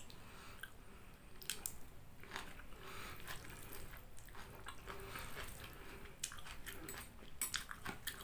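Close-miked chewing of a mouthful of mie ayam chicken noodles, with many scattered short, sharp clicks and smacks that come thicker near the end.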